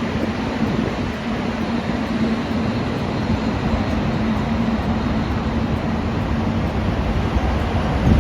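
Train running past with a steady rumble and a faint steady hum that fades out about halfway through.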